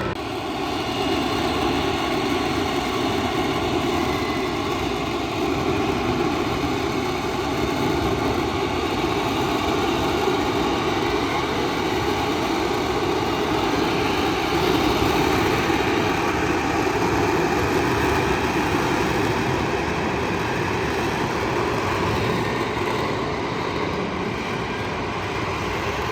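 Lockheed Martin F-35B in a vertical hover: its Pratt & Whitney F135 jet engine and shaft-driven lift fan running steadily at high power, a loud jet noise with a faint whine held at a steady pitch.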